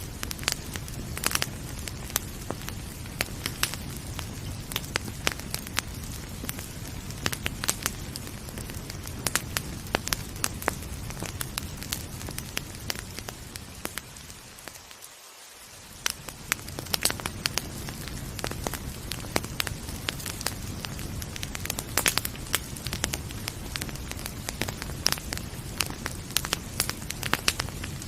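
Wood fire crackling with frequent sharp pops over a steady hiss of rain. About halfway through, the background briefly fades down, its low rumble dropping out, then comes back.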